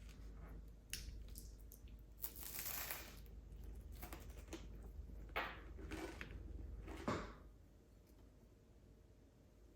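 Light handling sounds of small objects at a table: a run of soft knocks and clicks, with a brief scraping or rustling about two seconds in and the loudest knock about seven seconds in, after which it goes quiet.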